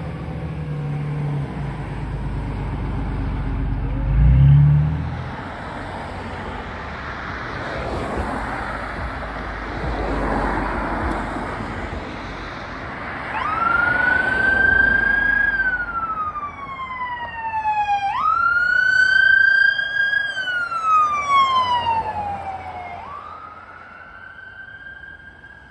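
Heavy emergency vehicle engine rumbling past, with a brief loud low blast about four seconds in. About halfway through, an electronic siren starts wailing: three cycles, each rising sharply and then sliding slowly down, fading near the end.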